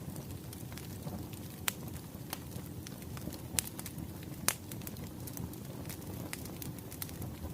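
Wood fire crackling: a steady low rumble of burning firewood with scattered sharp pops, two louder ones about three and a half and four and a half seconds in.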